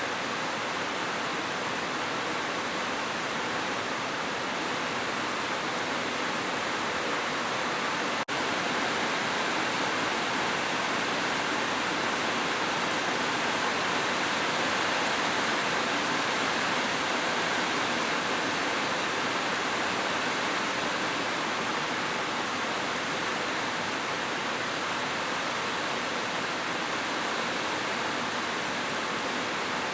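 Heavy rain falling in a steady, even hiss, with a momentary dropout about eight seconds in.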